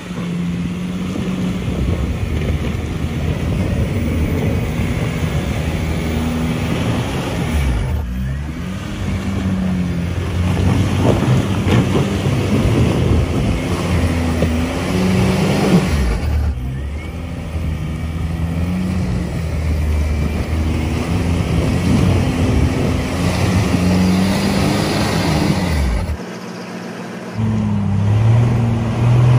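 A 4x4 off-road vehicle's engine running under load and revving up and down as it is driven, with brief lulls twice. Near the end it drops briefly, then revs up again.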